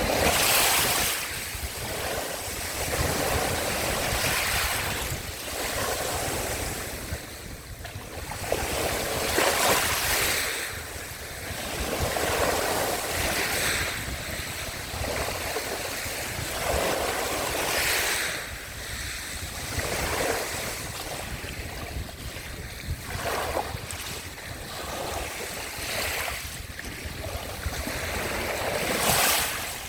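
Small sea waves washing onto the shore one after another, each a rush of surf that swells and fades every two to three seconds.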